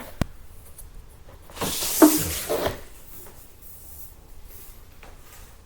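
Flooring pieces being handled and fitted: a sharp click near the start, then a short scraping rustle with a knock about two seconds in.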